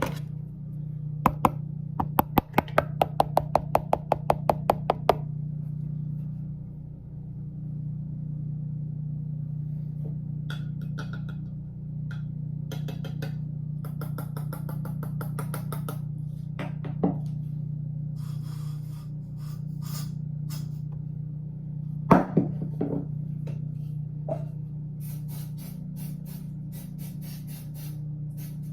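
ASMR trigger sounds made by hand on objects: two clicks, then a quick run of even tapping at about five taps a second, later scratching and rustling passages, a couple of sharp knocks and fast crinkly bursts near the end, over a steady low hum.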